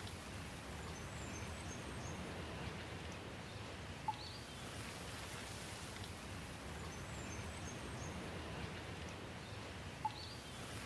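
Steady rain falling, an even hiss. A short sharp plink stands out twice, about six seconds apart, with faint high chirps above the rain.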